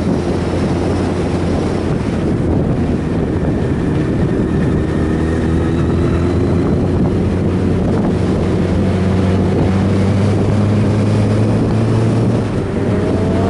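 Motorcycle engine running at a steady cruising speed under heavy wind noise on the microphone, the engine tone holding an even pitch.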